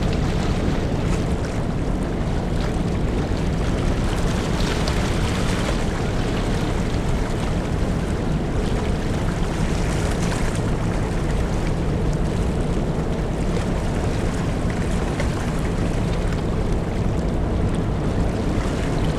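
Large car ferry running steadily as it comes into port: a constant low engine hum under the rush of water and wind noise on the microphone.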